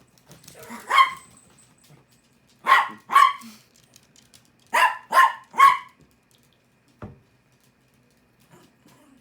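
Small dog barking in short bursts: a single bark, then two, then three in quick succession.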